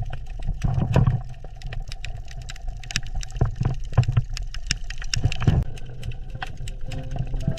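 Underwater reef ambience: irregular clicking and crackling with bubbling over a low rumble.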